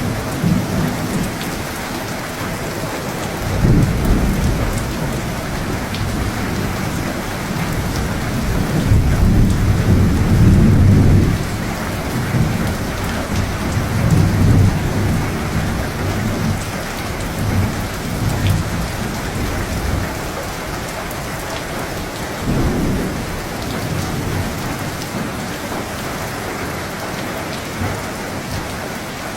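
Steady heavy rain with rolling thunder rumbling low beneath it. The loudest long roll comes about 8 to 11 seconds in, and shorter rumbles swell up several more times.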